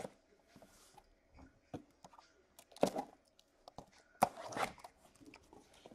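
Trading-card case packaging being handled and opened: scattered crinkles, scrapes and light knocks of cardboard and plastic wrap, with louder bursts of crackling about three and four seconds in.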